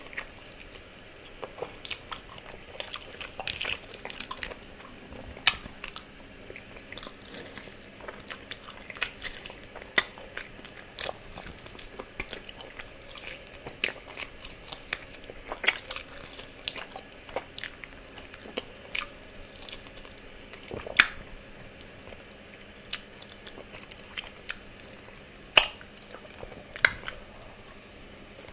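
Close-miked biting and chewing of fried chicken wings eaten by hand: irregular wet mouth clicks and smacks, with a few sharper snaps in the last third.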